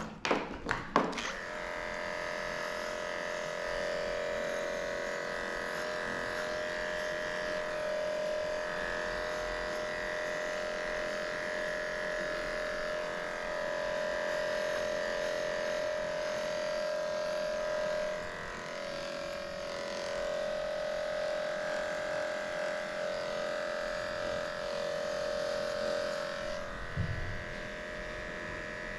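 Electric dog-grooming clippers running with a steady motor hum, after a few sharp clicks about a second in.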